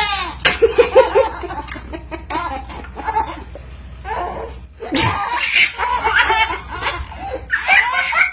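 A child laughing hard in repeated bursts, with a sudden sharp burst like a sneeze about five seconds in.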